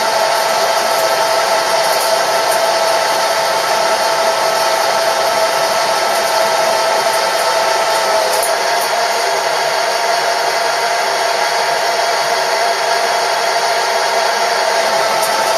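Metalworking machine tool running steadily while machining a home-made fly cutter: a motor whine with a constant pitch over an even hiss, with a few faint ticks.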